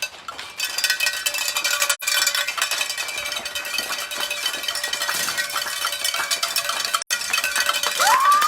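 Spectators applauding and shaking metallic noisemakers, a dense clatter of claps with a ringing jangle, starting about half a second in. There is a rising whoop near the end.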